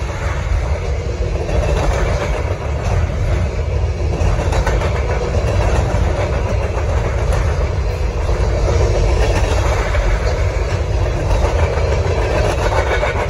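Freight cars of a long freight train rolling past close by: a steady, loud rumble of steel wheels on the rails.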